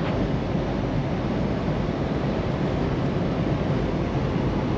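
Steady road and engine noise inside a semi truck's cab while driving at highway speed.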